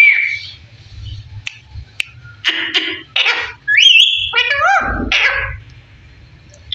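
Pet parrot calling: a short whistle, then harsh rasping calls, and about four seconds in a rising whistle followed by sliding whistled notes and one more harsh call.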